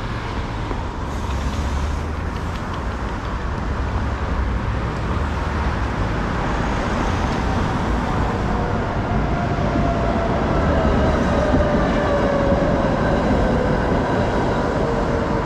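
Steady city street traffic. In the second half a passing vehicle's whine slowly falls in pitch.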